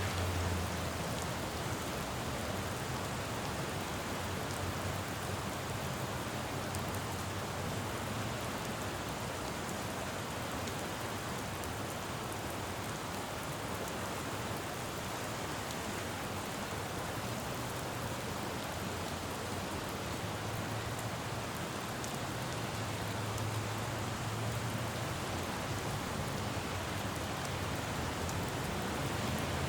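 Steady rain falling on a city road, with a low rumble of traffic that swells at the start and again about two-thirds of the way through.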